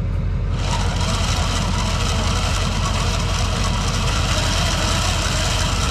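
Tow truck's engine running steadily, with an even hiss over it that starts just under a second in.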